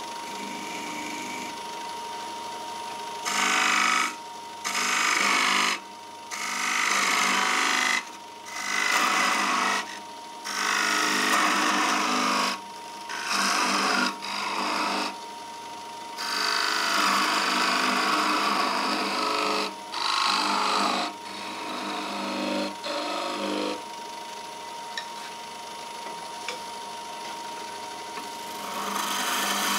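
Pine turning on a running wood lathe, with a tool or abrasive pressed against the spinning wood in about a dozen short passes of a second or so each, starting and stopping sharply, over a steady running tone.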